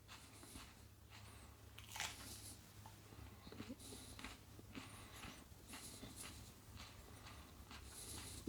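Faint mouth and breath sounds of a man chewing a superhot chili pepper, with short hissing breaths recurring about every second over a low steady hum.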